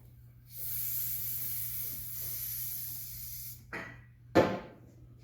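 Aerosol can of ether starting fluid sprayed in one steady hiss for about three seconds, then a short knock and a sharp, louder thump about four seconds in.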